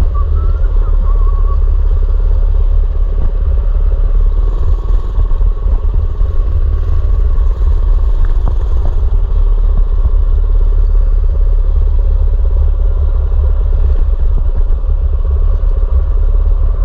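Mini bike's small engine running at a steady pitch while being ridden, with a heavy low rumble of wind on the microphone.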